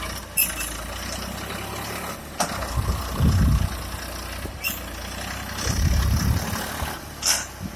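Tractor diesel engine running steady under load in deep sand, with two heavier surges of low rumble and a few short sharp knocks.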